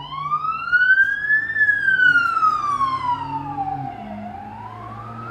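Emergency-vehicle siren wailing: one tone that slowly rises in pitch, falls over about two and a half seconds, and starts rising again near the end, over a low steady hum.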